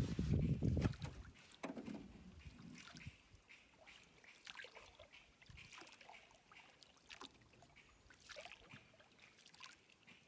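Water sounds and small knocks around a small fishing boat: a low rumble dies away about a second in, leaving faint scattered taps and trickling.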